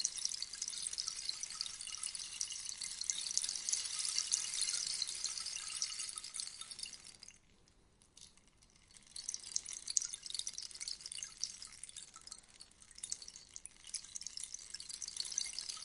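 Rainstick: a dense, high patter as its fill trickles down the tube, dying away about seven seconds in to a brief near silence, then starting again a second or so later as the stick is turned over.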